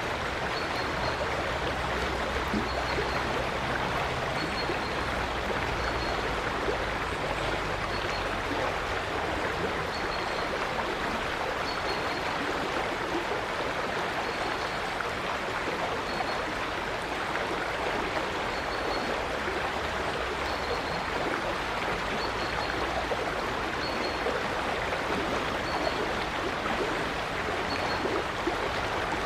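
River water flowing steadily with a constant rushing burble. A small bird gives a short high chirp every second or two over it.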